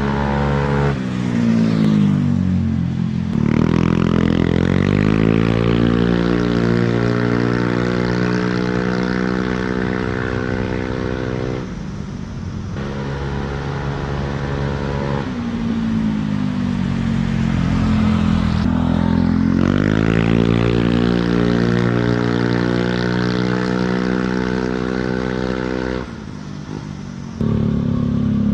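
Automatic scooter's single-cylinder engine running through an aftermarket quiet-type copy-CMS exhaust. It is revved up and held high twice, dropping back briefly about halfway through and again near the end.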